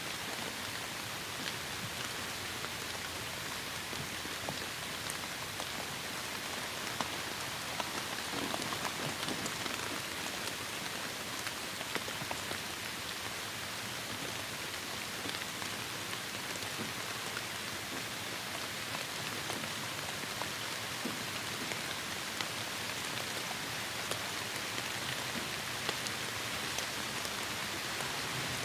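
Steady heavy rain falling, a continuous hiss with scattered individual drops ticking.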